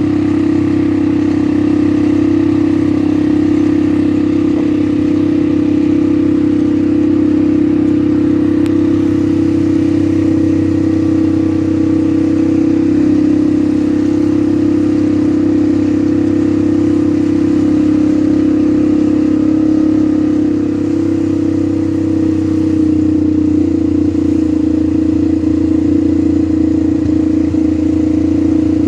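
ATV engine running steadily at one even pitch, with a brief dip in level about twenty seconds in.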